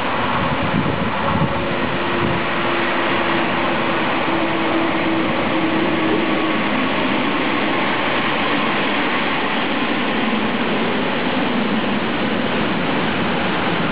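Freight train hauled by a DB Railion electric locomotive passing close by, with a steady hum for the first half as the locomotive goes past. A long string of tank wagons follows, giving continuous wheel-on-rail rolling noise.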